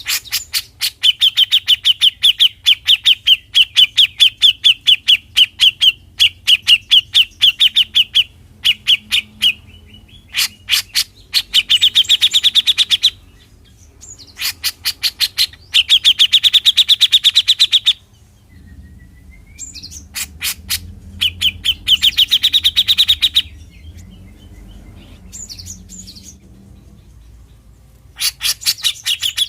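Grey-cheeked bulbul (cucak jenggot) giving its fast rattling 'mbeset' chatter: long runs of rapid, evenly repeated sharp notes in several bursts with short pauses between, and one brief rising whistle about two-thirds of the way through.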